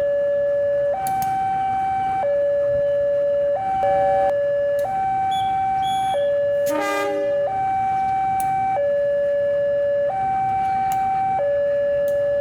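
Electronic two-tone warning alarm of a railway level crossing, stepping back and forth between a higher and a lower tone about every second. About seven seconds in, a brief sharp blast sounds over it.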